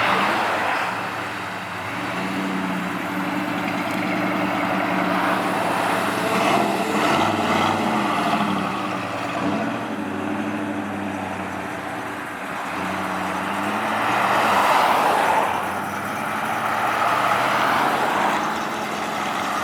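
Car engines running as cars drive past, several engine notes overlapping and shifting in pitch, loudest about fifteen seconds in.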